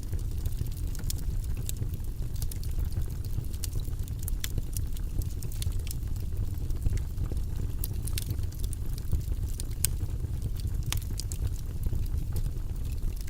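Fire in a fireplace crackling: frequent irregular sharp snaps and pops over a steady low rumble of burning flames.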